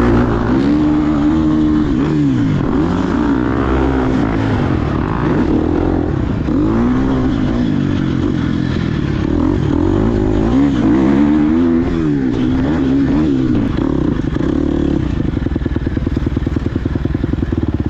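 Two-stroke KTM SX150 dirt bike engine being ridden, its pitch repeatedly rising and falling as the throttle opens and closes. For the last few seconds it drops to a lower, steady, pulsing run.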